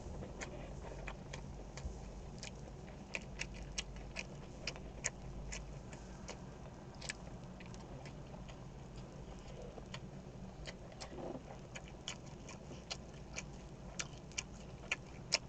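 Pork belly cooking in a hot pan, its fat popping and crackling in sharp, irregular ticks over a faint hiss.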